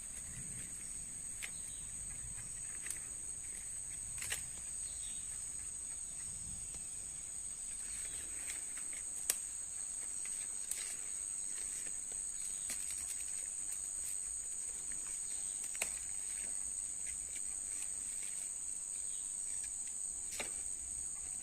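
Steady high-pitched insect chorus, with scattered faint clicks and rustles.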